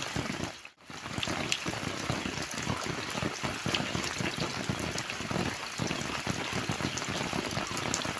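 Steady rain falling, a dense patter of many drop hits. It cuts out briefly just under a second in, then carries on unchanged.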